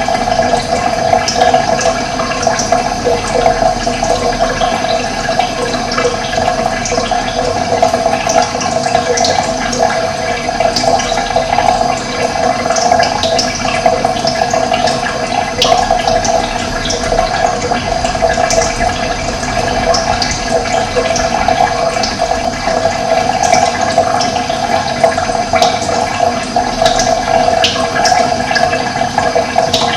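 Steady rushing of running water, with short high bird chirps scattered throughout.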